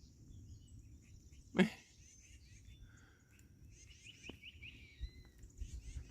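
Small birds chirping and twittering in quick repeated notes over a low outdoor rumble, with one brief louder sound about a second and a half in.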